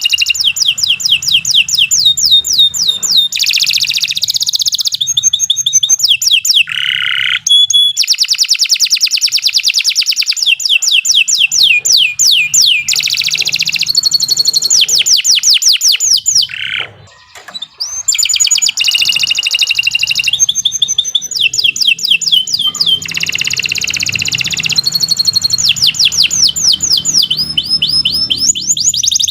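Domestic canary singing a long, loud song of fast trills, each phrase a rapid run of repeated high notes, with one short pause about seventeen seconds in.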